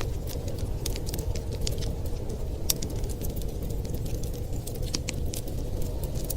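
Wood fire crackling, with many small sharp pops and snaps at uneven intervals over a steady low rumble.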